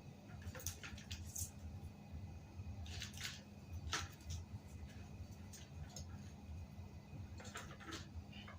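Short, scattered scraping and rubbing sounds of hands working on a bicycle tire, with a sharper click about four seconds in, over a steady low hum.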